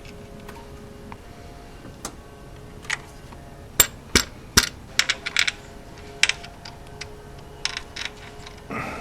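Hand tap cutting threads into a hole in an aluminum valve cover, turned in short strokes: a scattering of sharp, irregular clicks, thickest around the middle.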